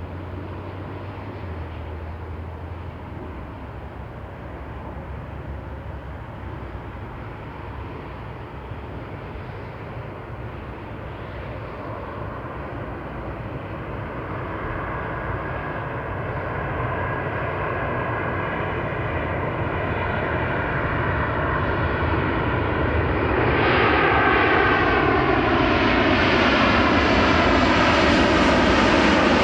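Passenger airliner on landing approach, its engine noise growing steadily louder as it nears. Over the last several seconds it passes overhead and the engine whine drops in pitch.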